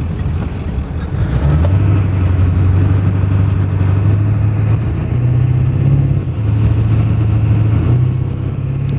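Truck engine running while driving, its low hum stepping up in pitch, dropping back and rising again as engine speed changes.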